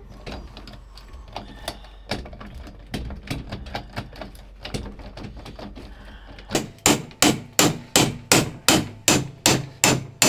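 Hammer striking metal: scattered light taps, then from about six seconds in a steady run of hard, evenly spaced blows, about three a second, each with a short metallic ring.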